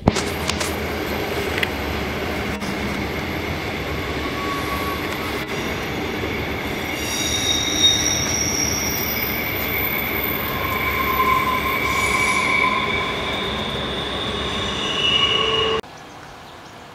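A train running past on steel rails, with wheel squeal: several high, steady squealing tones that come and go over the continuous rumble of the wheels. It starts suddenly and cuts off abruptly about a second before the end.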